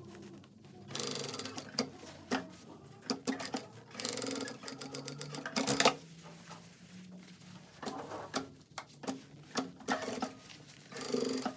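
Sewing machine stitching in short runs that start and stop, with scattered single clicks between the runs.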